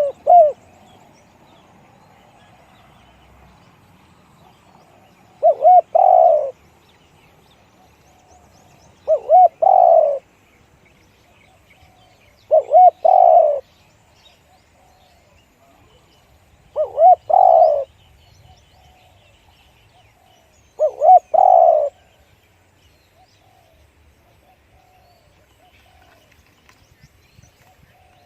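Spotted dove cooing. It gives its call five times, about every four seconds, and each call is a couple of short notes run into a longer coo.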